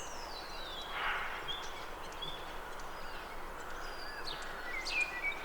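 Birds calling over a faint steady outdoor hiss: a long falling whistle in the first second, then scattered short chirps and whistles.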